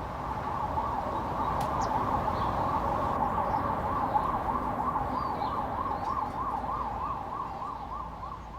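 Emergency vehicle siren warbling in fast up-and-down sweeps, about three or four a second, over a low traffic rumble. It grows louder, then fades near the end.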